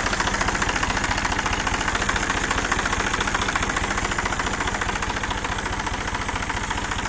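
New Holland 47 HP tractor's diesel engine idling with a steady, fast, even beat.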